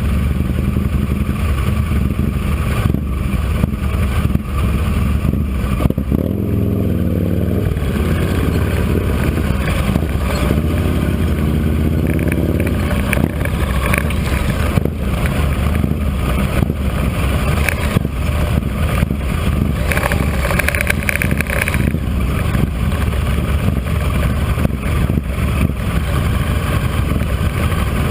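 Motorcycle engine running at low road speed, steady and loud. Its pitch rises and falls about six seconds in, and again from about ten to thirteen seconds in.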